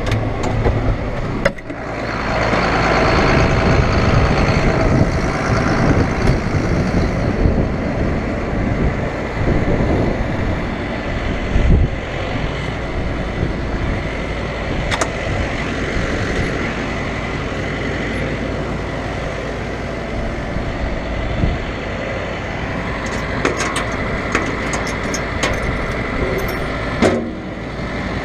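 Diesel harvest machinery running steadily, with engine and mechanical noise. It is louder for several seconds near the start, and a few light clicks come near the end.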